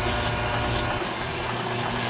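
Train running on rails: a steady rumble with a faint clack of wheels over rail joints about twice a second, the clacks fading about a second in.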